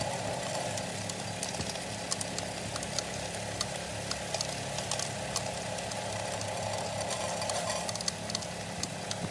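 Washing-machine motor running steadily, driving a homemade sand sieve, with a busy scatter of small sharp clicks and rattles over the hum.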